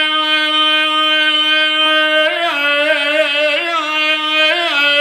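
A male voice singing a mawwal melisma: one long note held steady, then breaking about two seconds in into quick wavering ornaments that slide between neighbouring pitches.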